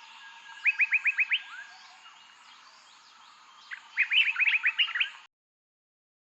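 Birdsong: two phrases of quick, rising chirped notes, a short series of about six near the start and a longer, denser one about four seconds in, over fainter background chirps. The sound cuts off suddenly about five seconds in.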